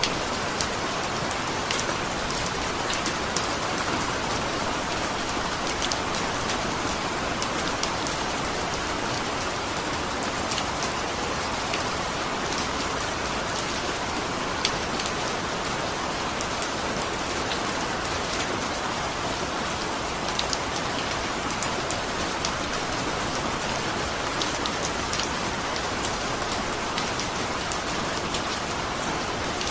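Steady rain falling, with frequent sharp ticks of single drops striking a surface.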